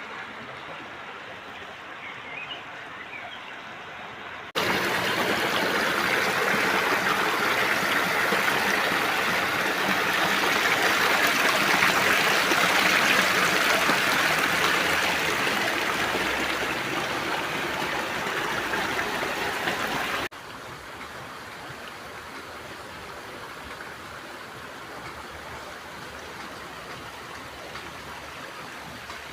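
Stream water running steadily. It jumps abruptly much louder about five seconds in and drops back just as abruptly about twenty seconds in.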